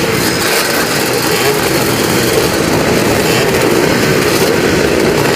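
Classic and twin-shock motocross motorcycles racing, several engines revving up and down over one another.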